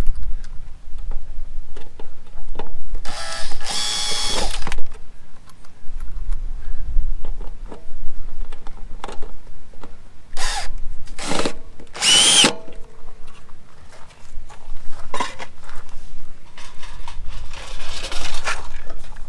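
Power drill running in short bursts, driving screws to fasten the water heater's trim ring to the RV wall. There are about five runs, the longest a second or two, and one climbs in pitch as it spins up.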